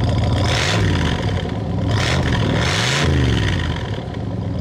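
1967 Corvette's L68 427 tri-power V8 idling through its side-pipe exhaust and revved three times in quick succession, each rev rising and falling back to idle.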